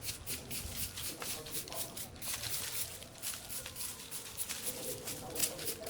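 Quick repeated rustling and scraping strokes, about three or four a second, of brush and vines being cleared, with faint voices underneath.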